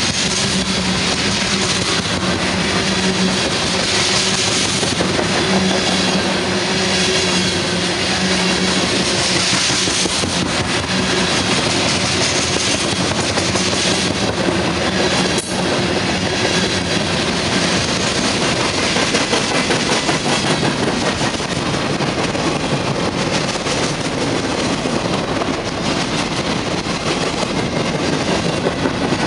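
Norfolk Southern freight train passing close by, its wheels rolling steadily on the rails, with a low steady hum through the first several seconds.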